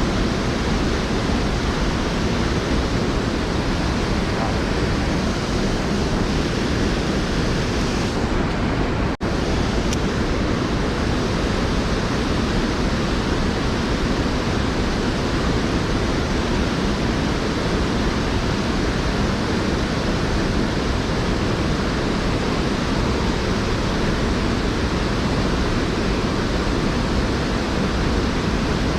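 Steady rush of creek water tumbling over a waterfall, an even, unbroken noise with a brief dropout about nine seconds in.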